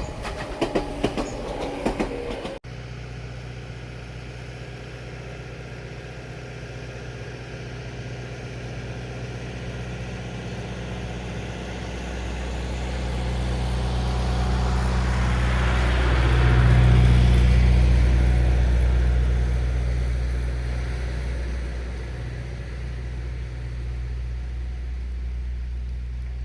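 Meitetsu 6000-series electric train passing. Wheels clatter quickly over the rails at first, then a low steady rumble swells as a train approaches, is loudest a little past halfway, and fades as it moves away.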